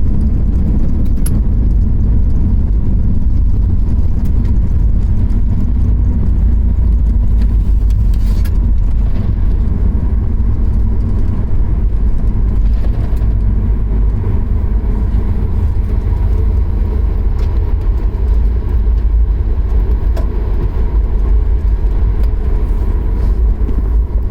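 Jet airliner cabin noise: a loud, steady low rumble of engines and airframe heard from inside the cabin, with the plane on the ground just after landing.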